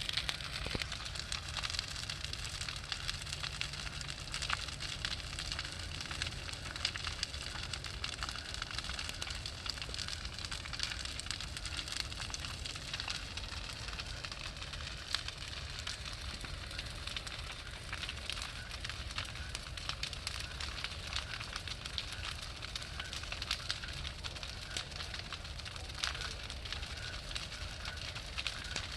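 Large bonfire burning, crackling and popping irregularly over a steady low rumble.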